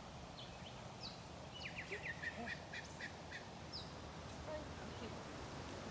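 Wild birds calling in the trees: a quick run of about eight short falling chirps about two seconds in, with scattered higher whistles around it.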